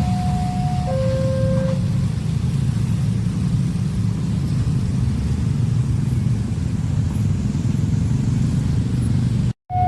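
Level crossing warning alarm sounding its alternating high-low two-tone signal, which stops about two seconds in and starts again just before the end after a brief dropout. Under it is a loud, steady low rumble.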